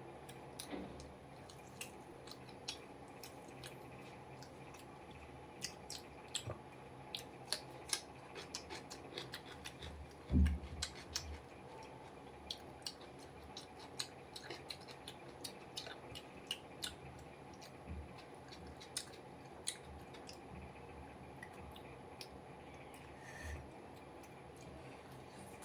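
Close-up eating sounds: a person chewing, with many scattered sharp mouth clicks and smacks, and one low thump about ten seconds in.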